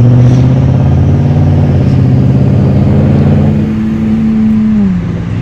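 Car engine running loud and steady under way, its note dropping in pitch near the end as the revs fall.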